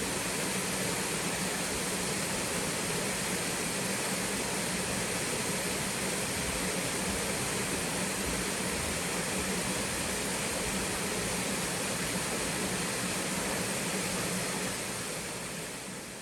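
Small twin waterfall pouring steadily into a mountain stream, a constant rushing of water that fades out near the end.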